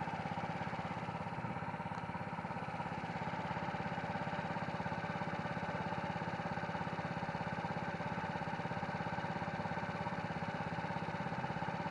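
A steady mechanical hum, like a motor or engine running evenly, with a fast, even pulse to it.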